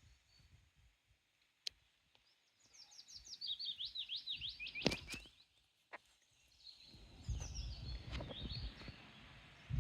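A small songbird singing a quick run of high notes that falls steadily in pitch over about two and a half seconds, followed later by another, shorter bird phrase. Low rustling noise comes in during the second half.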